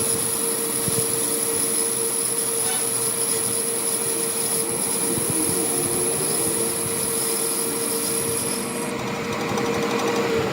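A workshop power tool or machine running steadily on metal, with a continuous hum, a high whine and a scraping, rubbing noise. The high whine stops about nine seconds in while the hum carries on.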